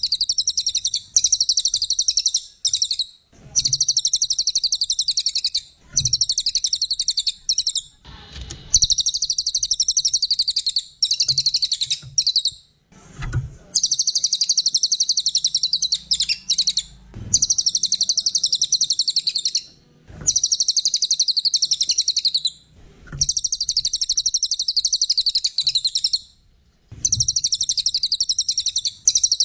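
Small songbird singing in long, very rapid, high-pitched chattering trills a few seconds each, repeated about ten times with short pauses between them.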